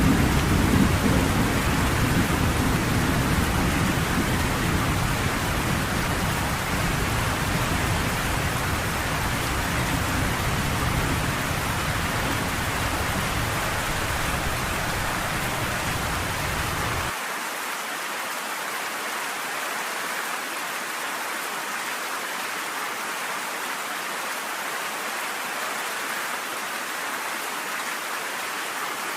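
Steady rain falling, with a low rumble of thunder underneath that cuts off suddenly about two-thirds of the way through, leaving only the rain.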